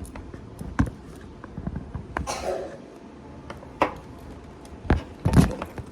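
A few scattered knocks and bumps, the loudest near the end, with a short rustle about two seconds in: things being handled in a small room.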